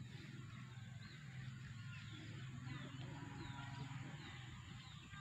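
Faint, repeated short chirps of small birds, over a low steady hum.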